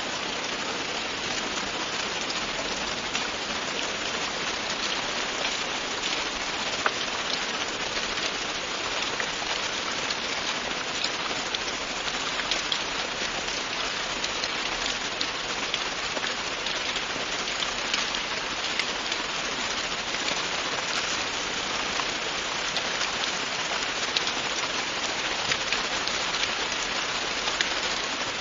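Steady, continuous rain falling on a surface, a dense even hiss with many small drops ticking through it and now and then a louder single drop.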